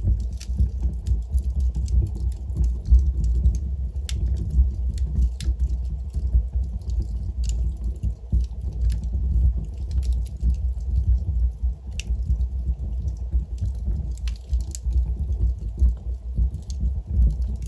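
Log fire burning in a fireplace: a steady low rumble of flames with scattered crackles and a few sharper pops from the burning wood.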